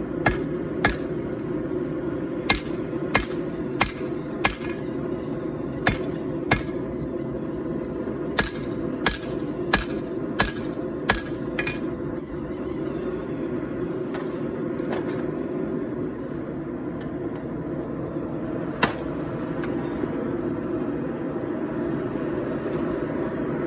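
Hand hammer striking hot 4140 steel on an anvil: over a dozen ringing blows, about one every half to three-quarters of a second, which stop about twelve seconds in, then a single blow a little later. Under it the gas forge's burner runs with a steady roar.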